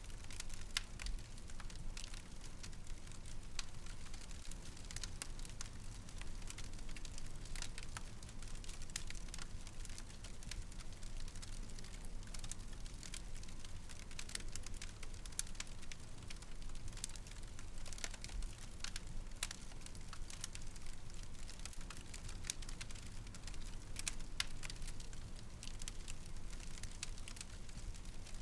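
Fire in a fireplace crackling, with frequent small irregular pops over a steady low background.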